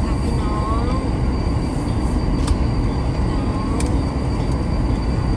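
Steady low rumble of a moving vehicle, with a thin steady high whine and a few short squeaky rising-and-falling tones.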